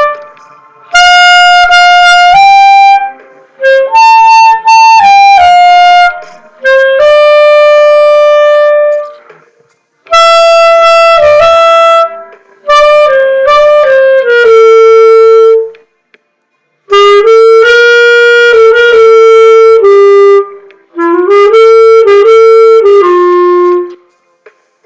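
Solo clarinet playing a melody in phrases of one to three seconds, separated by short pauses.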